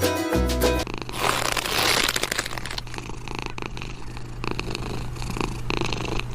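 Music cuts off under a second in. After a short burst of noise, a domestic cat purs close to the microphone, pulsing steadily with its breaths.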